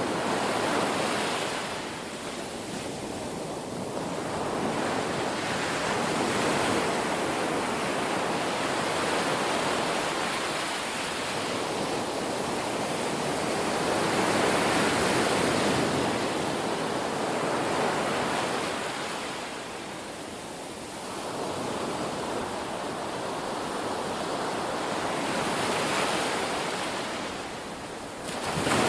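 Ocean surf, waves breaking and washing up a shore, the rush swelling and fading every several seconds.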